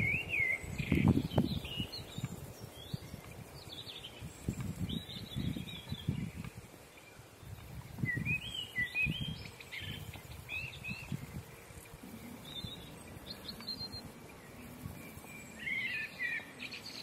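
Small birds chirping in short, scattered phrases every few seconds, over intermittent low rumbles on the microphone.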